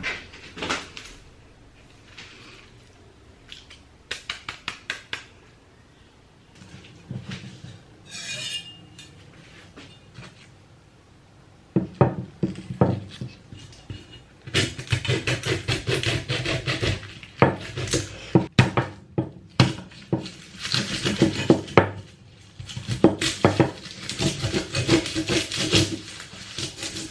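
Kitchen utensils and dishes clattering and knocking as food is prepared: scattered clicks at first, then rapid, dense clattering from about halfway through.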